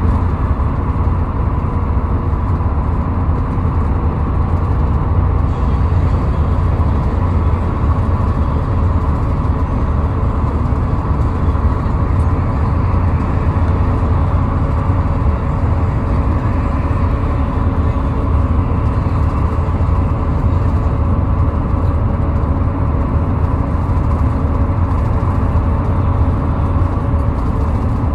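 Steady road noise of a car travelling at highway speed: a constant low rumble with a faint, even whine on top.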